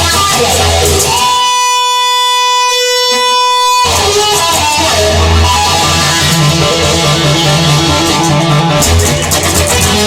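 Instrumental guitar music from a band, no singing. About a second in the band drops out under one long held guitar note, and the full band comes back in just before four seconds.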